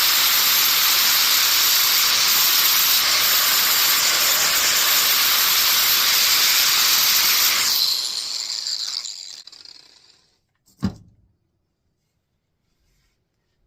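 Angle grinder with a flap disc grinding paint and rust off a steel axe head: a loud, steady hiss with a high whine. About 8 seconds in it is switched off and spins down, fading out over about two seconds, and a single knock follows shortly after.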